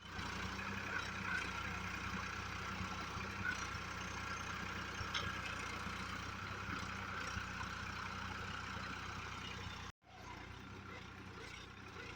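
New Holland 3030 tractor's three-cylinder diesel engine running steadily. The sound cuts out for a moment about ten seconds in, then resumes a little quieter.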